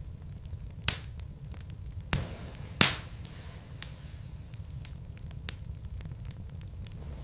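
Wood fire crackling in a fireplace: sharp pops and snaps of burning logs over a low steady rumble of the flames, with a few louder pops about one, two and three seconds in.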